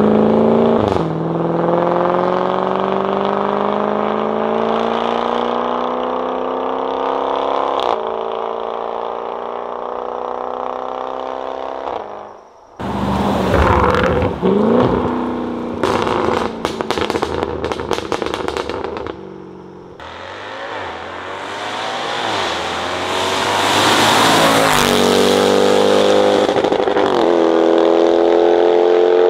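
Range Rover SVR's 5.0-litre supercharged V8 through a titanium exhaust with free-flow downpipes, heard from outside the car. The engine pulls steadily up through the revs, then comes a run of sharp crackles, a rush that swells and fades as the car goes by, and another pull near the end.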